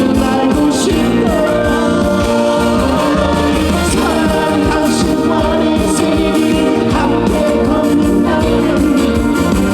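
Live performance of a Korean trot song: a male singer's voice over loud, steady instrumental accompaniment with a regular beat.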